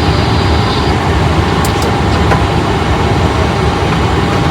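Airliner jet engines idling, heard from inside the cockpit: a steady rumble and hiss with a faint steady whine, and a couple of light clicks.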